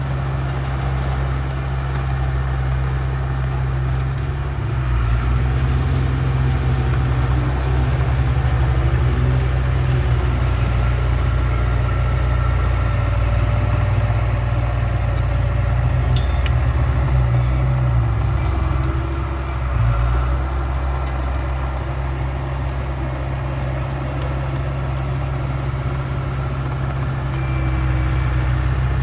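Heavy diesel engine of earthmoving machinery running steadily, getting a little louder about five seconds in and dipping briefly near twenty seconds.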